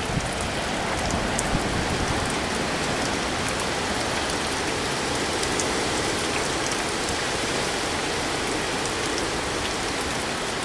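Hurricane rain and gusting wind: a steady rushing hiss of heavy rain with a low rumble of wind on the microphone and scattered sharp ticks of raindrops.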